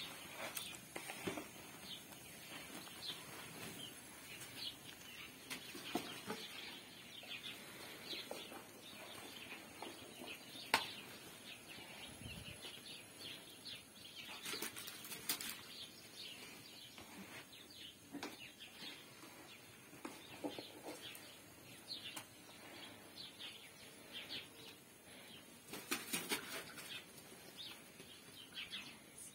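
Birds chirping and calling in the background, many short high calls, with an occasional sharp knock or clatter, the clearest about eleven seconds in.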